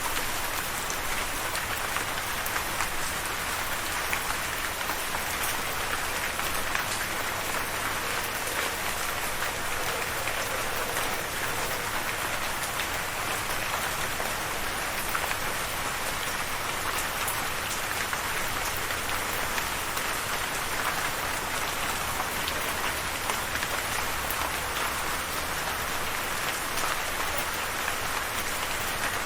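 Steady rain falling, a dense even hiss of drops with fine patter of individual drops hitting a surface.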